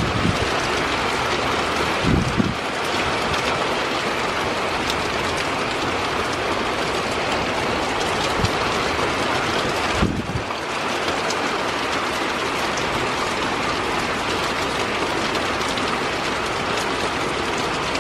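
Heavy thunderstorm rain pouring steadily, a dense even rush, with a couple of brief low thumps about two seconds in and again about ten seconds in.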